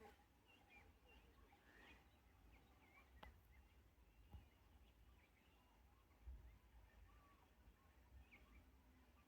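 Faint, scattered chirps of wild birds over a low rumble, with a single sharp click about three seconds in.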